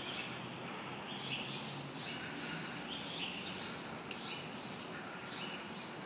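A small bird chirping over and over, short high notes repeating more than once a second, against a steady outdoor background hiss.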